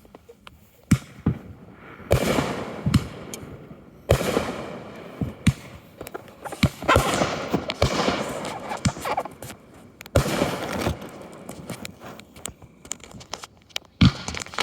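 Aerial fireworks going off one after another: a dozen or so sharp bangs, several followed by a second or more of crackling.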